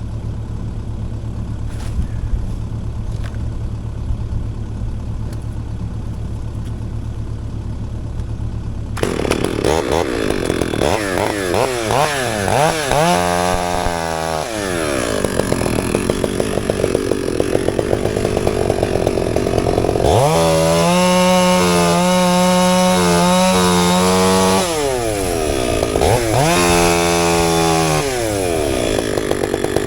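A low, steady engine idle with a few clicks, then about nine seconds in a two-stroke chainsaw starts and revs up and down repeatedly as it cuts wood, held at full revs for several seconds around the middle and again near the end.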